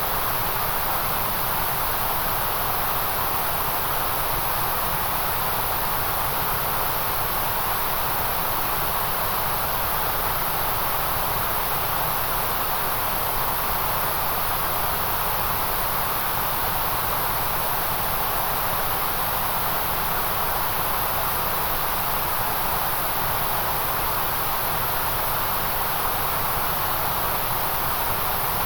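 Steady white noise: a constant, even hiss with no change in level or character, strongest in the upper-middle and very high range.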